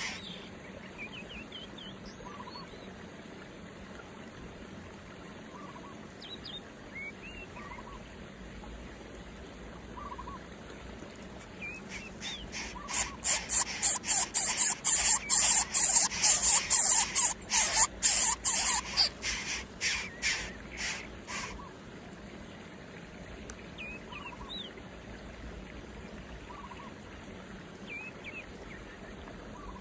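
Birds calling: a rapid run of loud, harsh calls, several a second, starts about twelve seconds in and lasts about nine seconds. Faint, short chirps are scattered through the rest.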